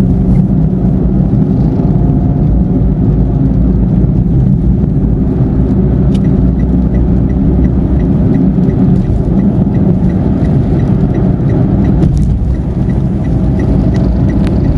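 Road and engine noise of a car driving at highway speed, heard from inside the cabin as a steady low rumble. From about halfway in, a faint regular ticking comes in at roughly two to three ticks a second.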